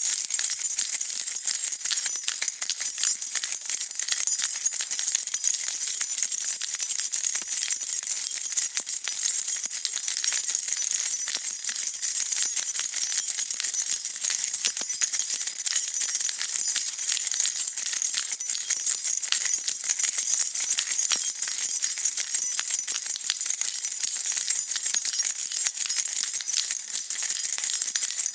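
A bunch of metal keys jingling continuously as they are shaken, a dense, unbroken stream of bright, high clinks with no pauses.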